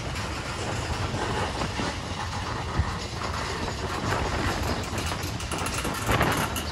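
Railcars of a gravel train rolling on the track: a steady rumble and rattle, with a sharp metallic click about three seconds in and a louder swell near the end.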